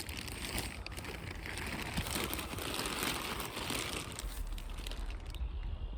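Footsteps crunching and rustling through dry leaf litter, a dense crackle that dies down shortly before the end.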